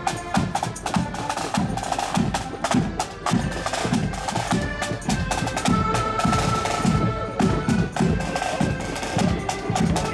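Accordion marching band playing a march: held accordion chords over a steady beat of bass drum and snare drums.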